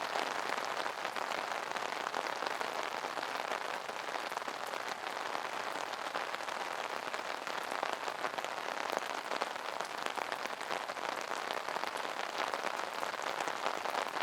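Steady rain pattering on an umbrella, a dense hiss of drops with many small individual taps.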